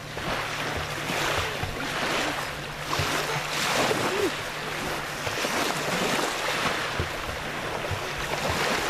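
Wind buffeting the microphone in gusts over water, with a steady low hum underneath.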